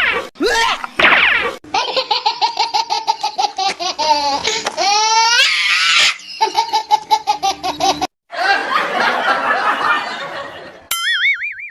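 People laughing hard, a long run of quick repeated ha-ha pulses, with a short wavering tone near the end.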